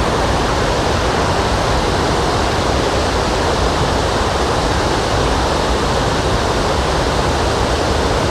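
Cullasaja Falls running in full flood after a day of heavy rain: a steady, loud rush of falling water.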